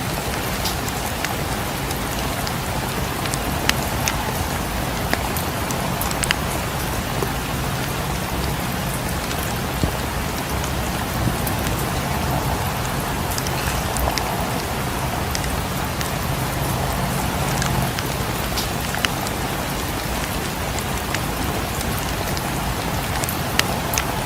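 Steady rain falling, a continuous hiss, mixed with a wood fire's scattered sharp pops and crackles.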